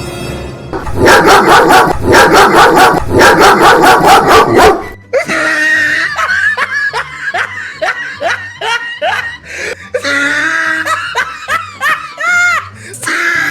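Loud, rapid dog barking, about four barks a second, for roughly four seconds. It gives way to laughter over background music with a steady bass line.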